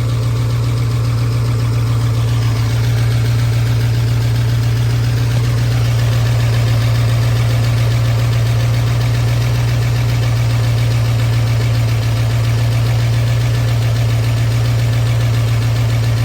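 Ford 351 Windsor V8 idling steadily, with an even low hum, while its ignition timing is being checked.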